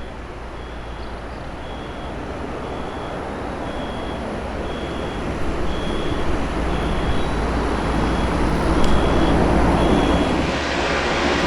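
Aircraft engine noise with a deep rumble, growing steadily louder as the aircraft draws nearer.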